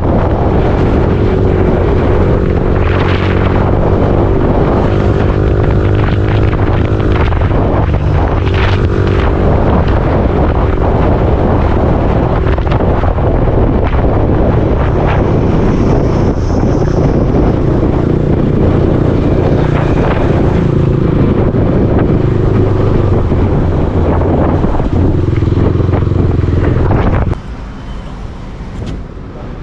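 Yamaha R15 V4's 155 cc single-cylinder engine running under way, with wind buffeting the helmet or bike-mounted microphone and the engine pitch rising and falling with the throttle. About 27 seconds in the sound drops noticeably quieter, as the bike slows.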